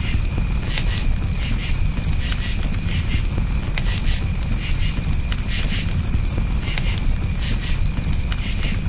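Crickets chirping in quick repeated pulses over a campfire burning, with scattered small crackles and a steady low rumble.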